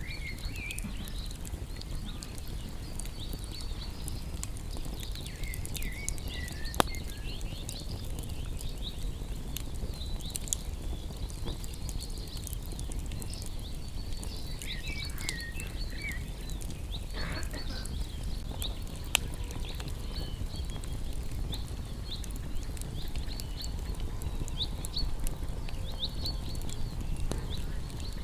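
Small birds chirping and twittering over a wood fire that crackles with a few sharp pops, against a steady low rumble.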